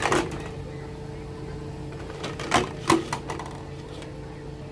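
A few sharp clacks of hard objects knocking: one at the start and two close together about two and a half seconds in, over a steady low hum.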